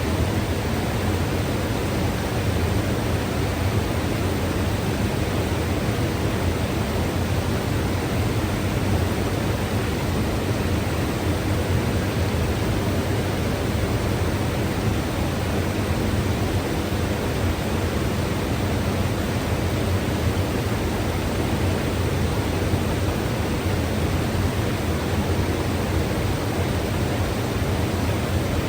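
Mountain river water running steadily: an even, unbroken rush with no separate events, heaviest in the low range.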